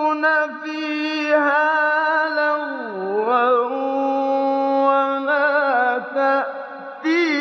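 A male Quran reciter's voice in slow, melodic tajweed recitation. He holds long notes with wavering ornamental turns, and the pitch swoops down and back up about three seconds in.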